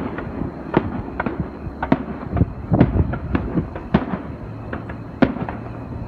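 Aerial fireworks going off in an irregular run of about a dozen sharp bangs and pops, some in quick pairs and some a second apart.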